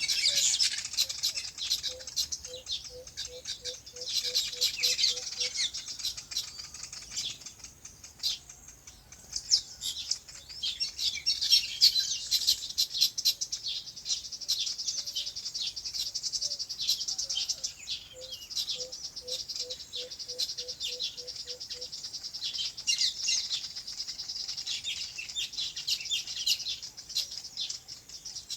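A chorus of many small birds chirping and twittering without a break, thinning briefly about a third of the way in. Twice, a run of about ten quick, low, evenly spaced notes sounds beneath the chirping, once early and once past the middle.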